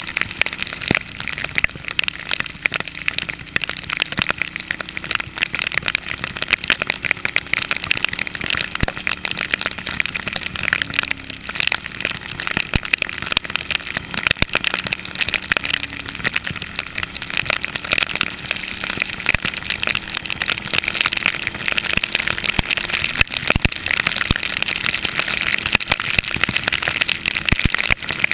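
Rain striking a motorcycle-mounted camera as dense, sharp taps over a steady hiss, with the Ducati Hypermotard's L-twin engine running faintly underneath.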